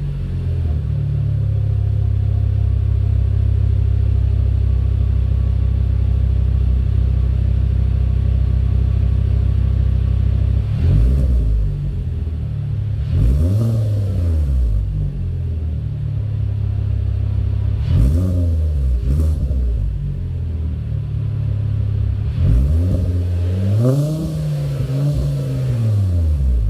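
Car engine and exhaust through a Borla XS Pro muffler, idling steadily for about ten seconds, then revved several times with short throttle blips and a longer rev near the end, each falling back to idle.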